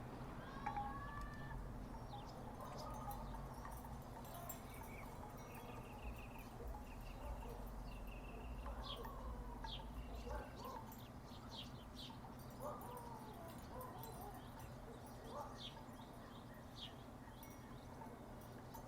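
Wooden tiki wind chimes knocking softly and irregularly, with scattered short bird chirps and a steady low hum underneath.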